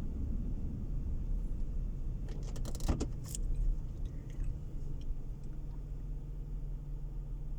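Car interior with steady low road and engine rumble, and a brief metallic jingling rattle of quick clicks about two to three seconds in; the rumble eases into a steadier, quieter hum in the second half.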